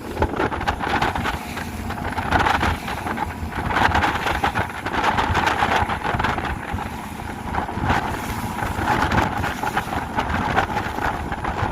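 Speedboat under way, its motor and the rushing water mixed with heavy wind buffeting on the microphone in an uneven, crackling rush.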